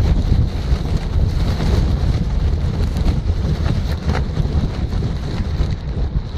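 Strong gusty wind buffeting the microphone: a loud low rumble that rises and falls with the gusts.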